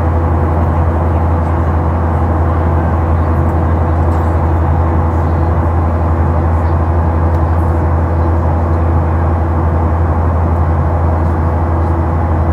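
Steady in-flight cabin noise of a Boeing 737-800 with CFM56 engines: a loud, even deep drone of engines and air rushing past the fuselage, with a thin steady hum above it.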